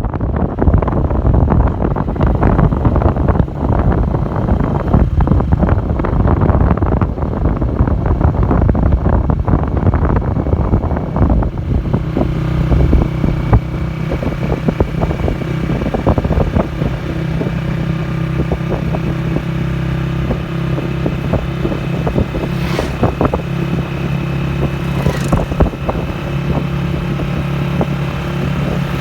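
Motor vehicle engine running with heavy wind buffeting on the microphone. About twelve seconds in, the buffeting drops and the engine's steady hum comes through plainly.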